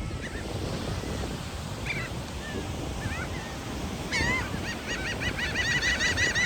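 Seagulls calling: a few scattered calls, then a fast run of repeated calls starting about four to five seconds in, over a steady low rush of background noise.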